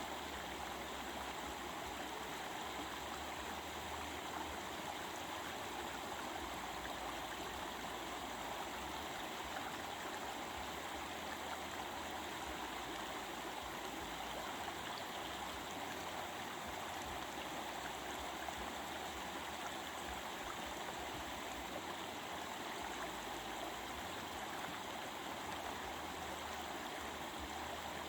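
Stream water rushing and babbling steadily over rocks, an even, unbroken flow.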